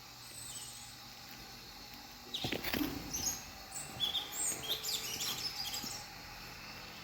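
Several small birds chirping, a quick run of short, high notes that starts about a third of the way in and thins out near the end. A brief thump comes just as the chirping starts.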